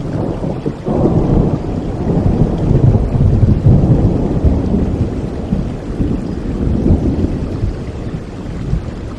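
Rolling thunder over steady rain: a deep rumble swells about a second in, is loudest a few seconds later, then slowly fades while the rain hiss continues.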